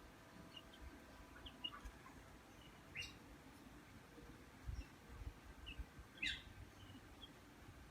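Faint, brief bird chirps against near quiet: two short whistled calls about three and six seconds in, the second sliding down in pitch, with a few tiny peeps between them.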